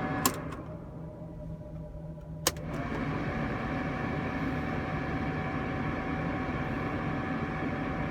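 Climate-control blower in a 1984 Mercedes 380 SL, heard over the steady idle of the car's V8. A switch clicks just after the start and the air rush dies down. A second sharp click comes about two and a half seconds in, and the blower comes back up with a steady rush of air.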